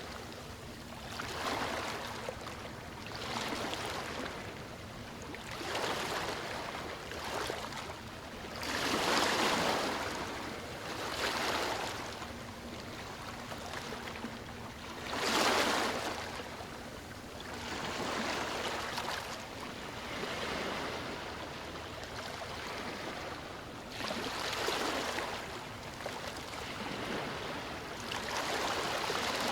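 Small waves washing up on a beach, a surge of water every two to three seconds, the largest about halfway through.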